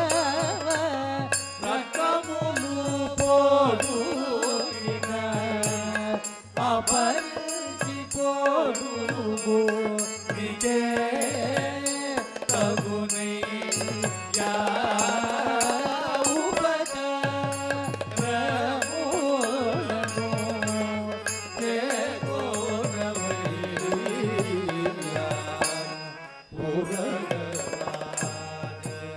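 Devotional Divyanamam bhajan singing in Carnatic style: a voice sings a melody over a steady drone, with drum and regular percussion strokes keeping the beat.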